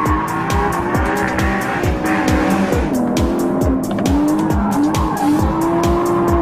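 Porsche Cayman GTS's 3.4-litre flat-six engine running on a track, under music with a steady beat of about two to three hits a second.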